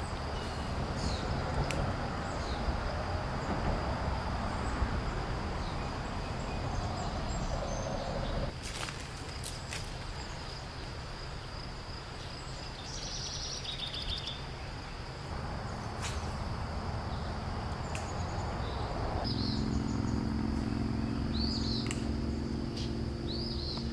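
Outdoor background noise, a steady low rumble that shifts abruptly a few times, with birds chirping now and then, more often near the end, and a few short clicks.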